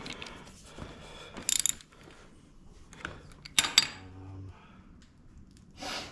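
Hand ratchet wrench clicking in short runs, with a few sharper metallic clanks of tools on metal.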